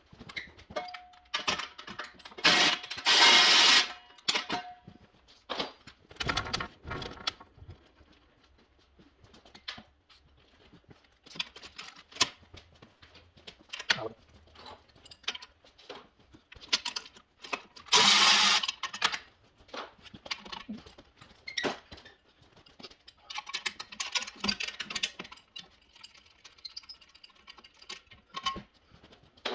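Small wire-feed welder arcing in short bursts of crackling hiss, about a second or two each: one starting about two seconds in and another about eighteen seconds in, with clicks and handling knocks between.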